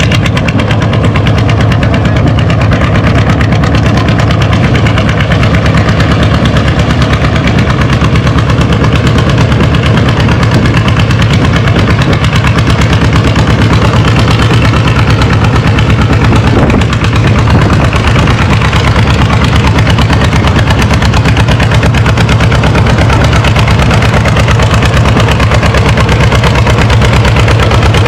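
John Deere D's two-cylinder engine pulling hard under load down a tractor-pull track, its exhaust popping in a rapid, steady beat.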